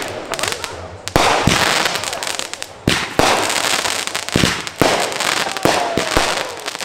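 Consumer fireworks going off: a string of about eight sharp bangs, a half second to a second and a half apart, with crackling in between and a faint falling whistle near the end.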